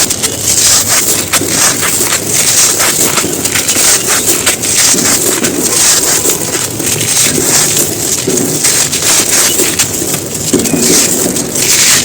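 Dry, brittle lumps being crushed and crumbled by hand: a dense, continuous crackle of many small snaps and crunches.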